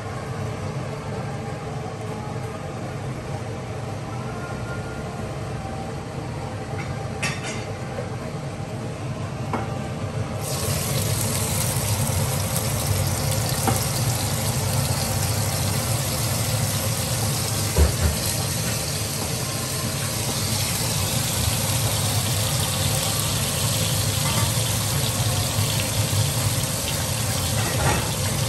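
Red chili spice paste frying in hot oil in a wok: a steady sizzle that starts suddenly about a third of the way in, over a steady low hum. A single knock comes about two thirds of the way through.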